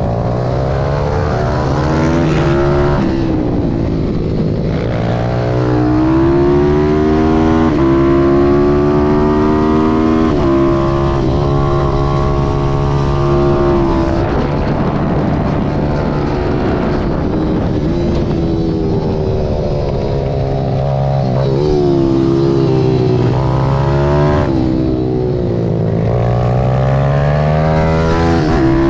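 Malcor Super Racer pit bike's ZS190 single-cylinder four-stroke engine racing round a track. The pitch climbs hard, drops back and climbs again many times as the rider accelerates, shifts and brakes, with a longer steady high-revving stretch about halfway through.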